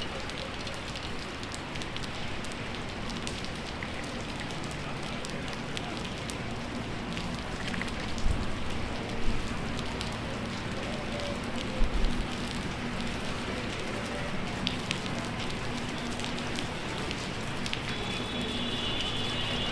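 Heavy rain falling steadily, with dense ticks of drops striking nearby surfaces. A few low thumps come about eight, nine and twelve seconds in.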